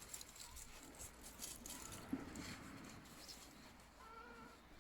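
Faint rustling and light handling noises, with a small knock about two seconds in. Near the end comes a short, faint wavering call.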